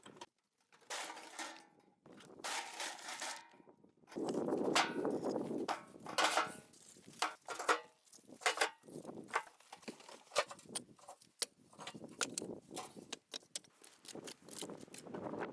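Irregular knocking, clattering and scraping of wood being handled and worked, with rustling in the first few seconds and many sharp knocks after that.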